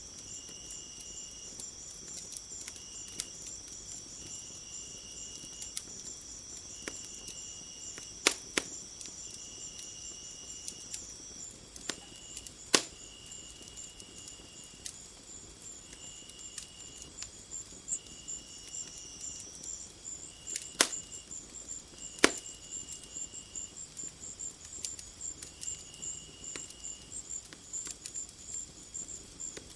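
Crickets and other insects trilling steadily, one in short repeated bursts, over a wood fire that crackles with a handful of sharp pops, the loudest about a third and two thirds of the way in.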